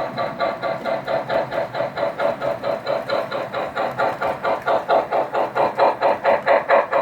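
Model steam locomotive's sound system chuffing in a steady rhythm of about four to five chuffs a second, growing louder near the end.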